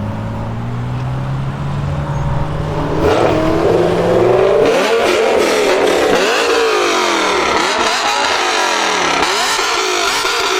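BMW car engine under hard acceleration: a low steady note that swells after about three seconds, then a series of climbing revs that drop back at each gear change.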